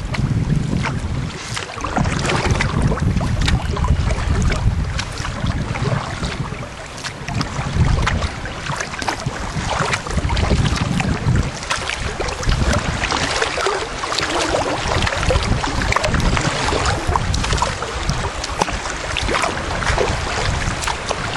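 Kayak on a river: water splashing and rushing around the boat and paddle, with wind rumbling on the microphone.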